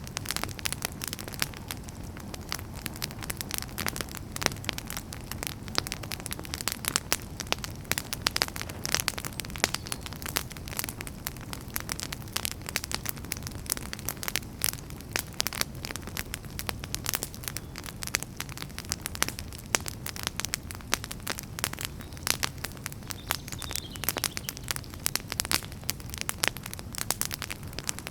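Wood fire burning in a fireplace, with dense, irregular crackles and pops over a steady low rumble and hiss of the flames.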